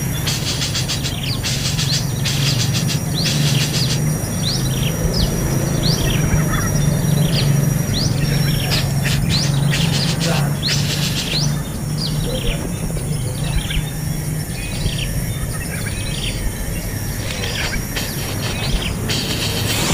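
Rapid, short, sharp chirps of hungry baby birds begging for food, repeated many times over a steady high thin tone and a low hum that stops about three-quarters of the way through.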